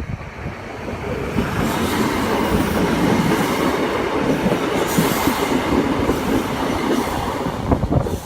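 Class 313 three-car electric multiple unit passing close by, a loud steady rumble of wheels on rails that builds about a second in and stops abruptly near the end.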